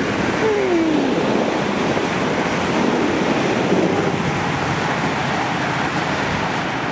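Class 319 electric multiple-unit train passing beneath a railway bridge, a loud steady rush of wheels and air, with a brief falling tone about half a second in.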